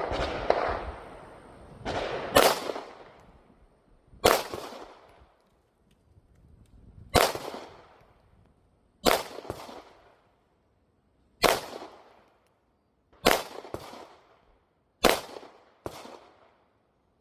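A string of about eight single gunshots fired at a slow, deliberate pace, one every second or two, each with a brief echoing decay. Two come in quicker succession near the middle.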